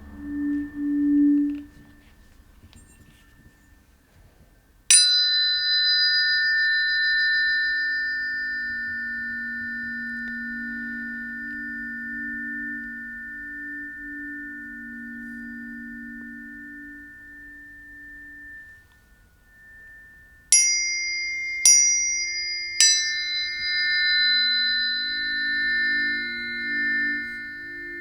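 Planetary tuning forks struck and left ringing in pure, slowly fading tones. One strike about five seconds in rings on and fades away; near the end three more strikes come in quick succession, their tones overlapping, with lower tones pulsing slowly underneath.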